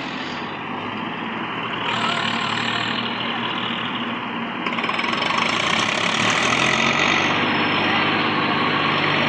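Diesel tractor engine running steadily, growing louder and harsher about five seconds in.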